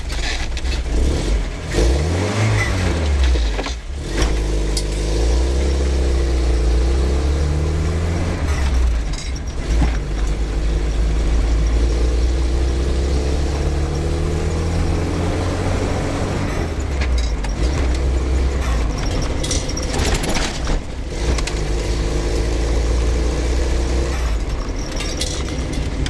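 Moskvich 2901's engine running under way, its pitch rising as it pulls away about two seconds in, then holding a steady hum that dips and picks up again a couple of times. Knocks and rattles from the body over bumps come in at several points.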